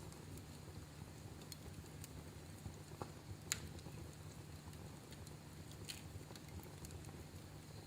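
Wood fire crackling: scattered sharp pops and snaps over a low, steady rumble, the loudest pop about three and a half seconds in.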